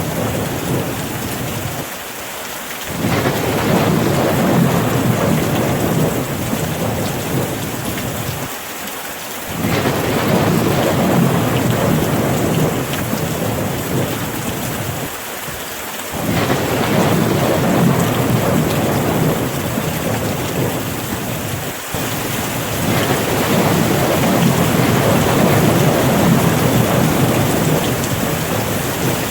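Steady rain hiss with low rolling rumbles of thunder that swell and die away several times.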